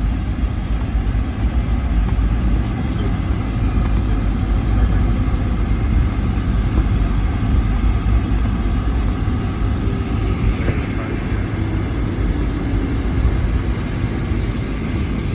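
Steady low rumble of a Boeing 757-300's engines and airflow heard inside the cabin, with the aircraft on the ground after landing.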